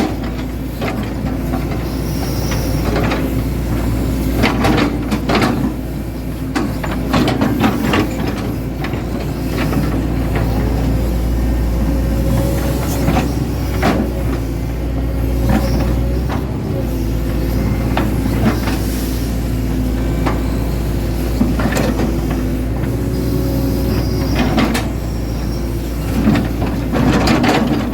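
Hitachi Zaxis 110 excavator at work: its diesel engine runs steadily with a low hum and steady tones, broken by many short knocks and clanks.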